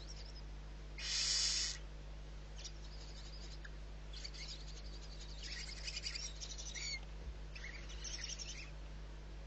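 Barn owl giving one harsh, hissing screech about a second in, followed by a run of fainter high chirps and clicks.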